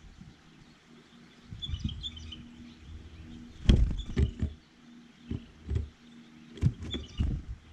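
A run of close knocks and dull thumps, the sharpest about a third and again about five sixths of the way through, with faint small-bird chirps about two seconds in and near the end.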